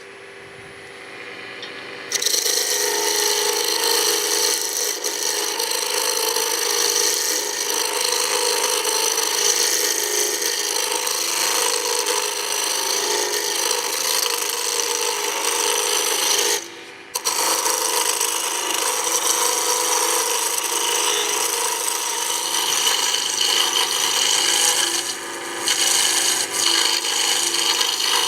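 A hand chisel cutting into a spinning pine blank on a wood lathe, roughing square stock down to round: a continuous rough scraping, cutting noise that starts about two seconds in as the tool meets the wood. It breaks off briefly past the middle as the tool is lifted, and eases for a moment near the end.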